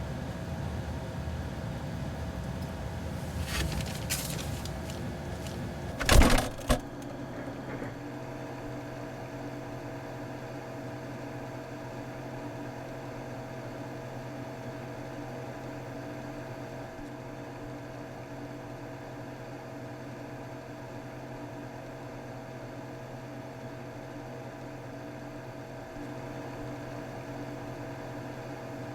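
A low rumble with a few clicks, then a loud double thump about six seconds in. After it a refrigerator hums steadily with a clear electrical tone.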